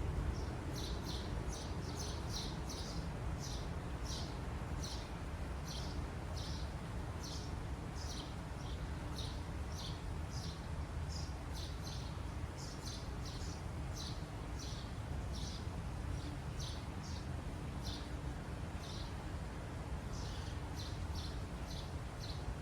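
Birds chirping: many short, high chirps, about two a second, over a steady low rumble.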